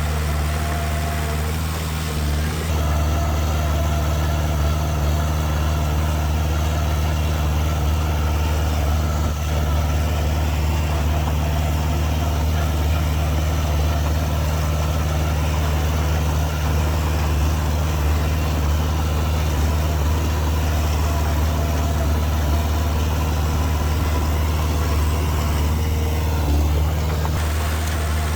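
Heavy diesel engine running steadily, a deep even drone with a slight change in tone about three seconds in.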